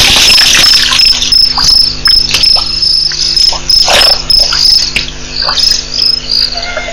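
Cricket chirping: a high, even chirp repeating several times a second, over a steady low hum, with a few short scattered noises.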